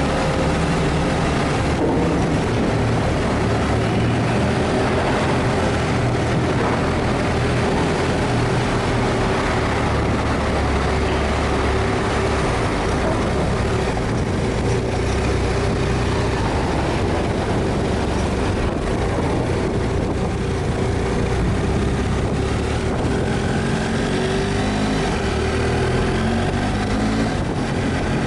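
A vehicle engine running steadily at constant speed, a continuous drone with a steady hum over rushing travel noise.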